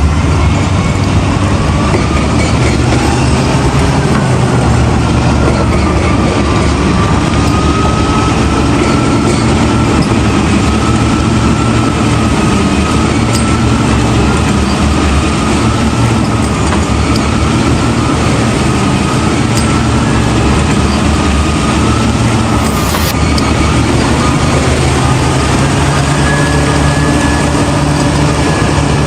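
Heavy earthmoving machinery's diesel engine running steadily under load, with a whine that wanders slowly up and down in pitch.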